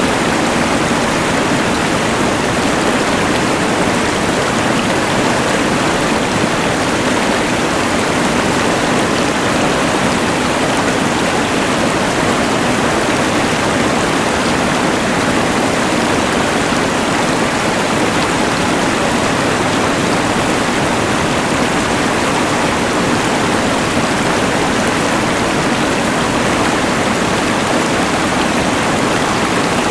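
Rushing mountain river blended with the steady hiss of a LectroFan white noise machine, an even, unbroken wash of noise with no change.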